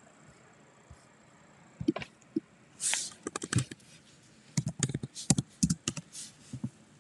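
An irregular run of sharp clicks and knocks, with a brief hiss about three seconds in.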